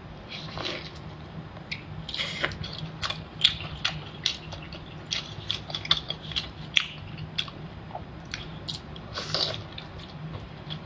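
A person chewing and biting large sea snail meat dipped in chili sauce, with frequent short, irregular mouth clicks and smacks.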